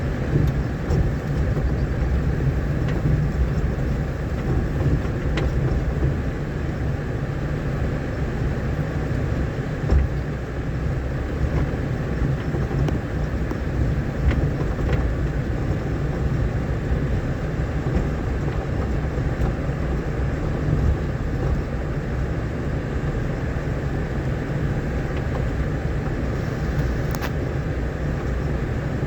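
A vehicle driving over a rough, unpaved dirt road: a steady low rumble of engine and tyres, with a few scattered knocks.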